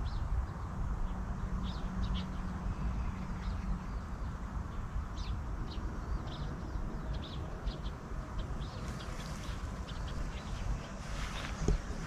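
Small birds chirping in short, scattered high calls over a steady low rumble. Footsteps begin near the end.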